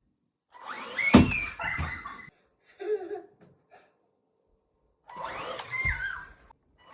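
Toy monster truck's small electric motor whirring in two bursts a few seconds apart, with a sharp knock about a second in.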